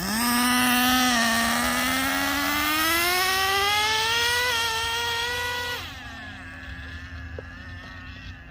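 Nitro RC monster truck's small two-stroke glow engine at full throttle: a high, buzzing note that climbs steadily in pitch for about five seconds, then falls away quieter as the throttle eases off.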